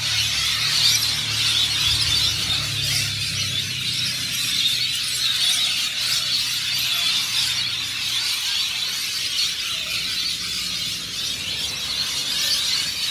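A large roosting flock of birds screeching and chattering in one dense, unbroken din, loud at night as they settle in the trees. A low steady hum runs underneath and fades out about halfway through.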